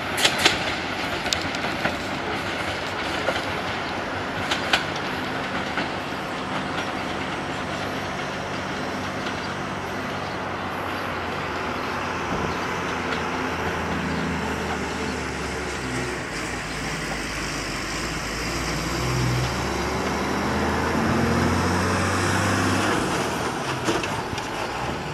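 Meter-gauge passenger train running past and away. Its wheels clack over the rail joints in the first few seconds, then settle into a steady rumble as it recedes. A low drone builds in the second half and is loudest a few seconds before the end.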